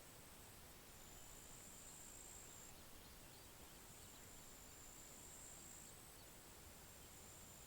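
Faint outdoor pond ambience: a high, thin insect trill sounding in long stretches of a second or two, one after another, over soft steady background hiss.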